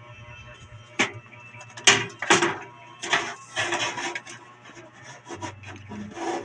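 Knocks and scraping of hard parts being handled while a desktop PC is put together: a few sharp knocks in the first half, then rubbing and scraping in the middle.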